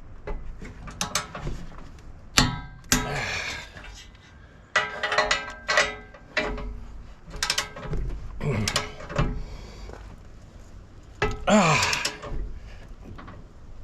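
Irregular metal clanks and clinks, some of them ringing, from hand tools and sockets knocking against steel hitch hardware while bolts are torqued. A longer clattering stretch comes near the end.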